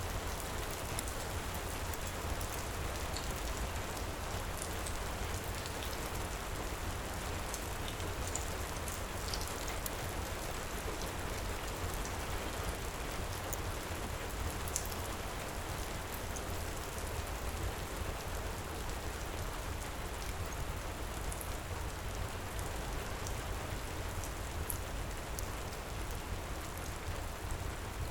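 Steady heavy rain with a low rumble underneath, and scattered faint pops of a crackling wood fire.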